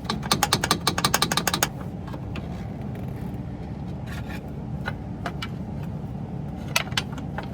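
Socket ratchet clicking rapidly, about ten clicks a second for a second and a half, as a nut or bolt is worked loose on the stock exhaust manifold hardware. A few scattered metal clinks follow, over a steady low hum.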